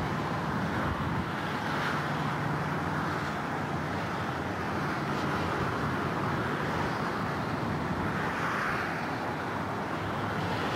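Distant passenger train hauled by three Amtrak F40PH diesel locomotives: a low steady engine drone under a rushing haze of wind on the microphone, which swells twice.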